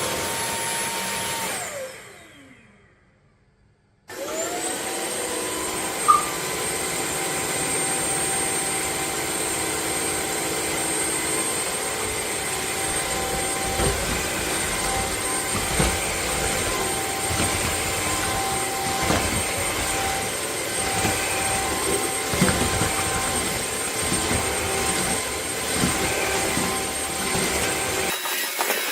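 Cordless vacuum cleaner motor switched off, its whine falling and dying away about two seconds in. It is switched back on about four seconds in, the whine rising and settling, then runs steadily with scattered knocks.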